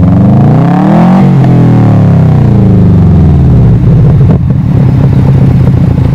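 2003 Subaru WRX's turbocharged flat-four engine, breathing through an Invidia N1 cat-back exhaust and catless downpipe, blipped once: the revs climb to a peak about a second in and fall back, and the engine then settles to a steady idle.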